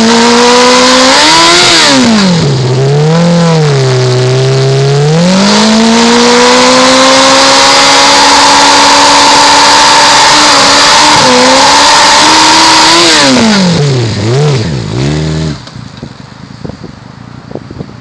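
Yamaha R6 600 cc inline-four revving hard during a burnout, with the rear tyre spinning on the pavement. The revs rise and fall a few times, hold high for about eight seconds over a steady hiss, then swing down. The engine stops about fifteen seconds in, leaving quieter clatter.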